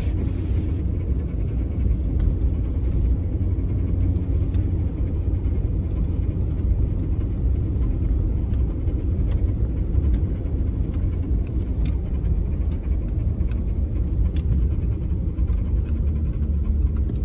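Steady low rumble of a car driving, heard from inside the vehicle, with a faint steady engine hum above it.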